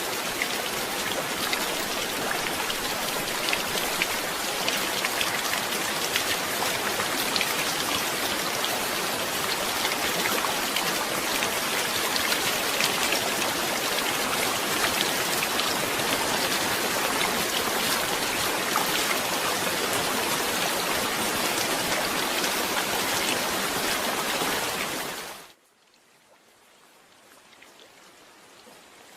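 Steady heavy rain, a dense patter of drops on a surface. About 25 seconds in it cuts off suddenly, then fainter rain slowly fades back in.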